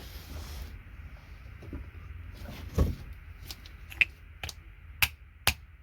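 Workbench handling noises: a dull knock about three seconds in, then three sharp clicks in the last two seconds, as a hammer and parts are picked up and set down.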